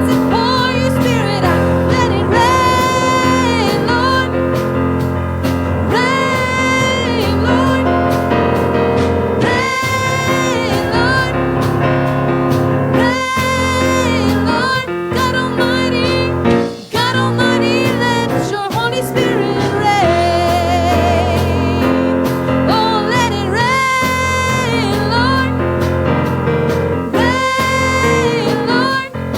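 Gospel worship music: a singer holding long notes, some with vibrato, over sustained instrumental accompaniment.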